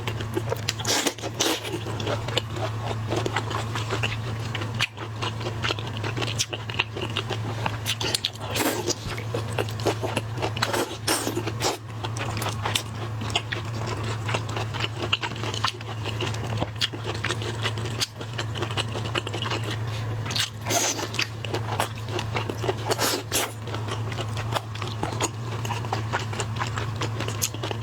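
Close-up eating sounds of seafood: repeated crunching, biting and crackling as shells are cracked and food is chewed, with scraping now and then, over a steady low hum.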